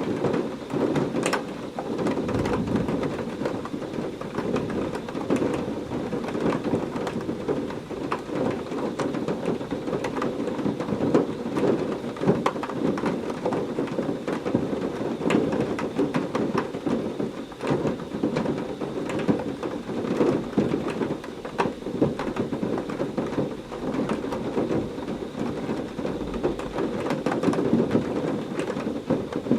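Heavy rain falling steadily in a thunderstorm, many close drops splattering over a dense low wash, with thunder rumbling underneath.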